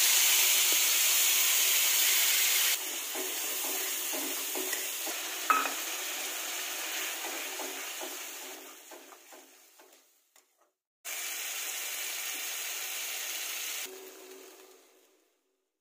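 Ground spice paste sizzling loudly as it hits hot mustard oil in a kadai, then frying more quietly as a metal spatula scrapes and stirs it. The sizzle drops out briefly about two-thirds through, comes back, then fades away near the end.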